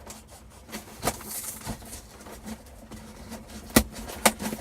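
Scraping, rustling and clicking as a heavily taped cardboard shipping box is worked open, with two sharp clicks near the end.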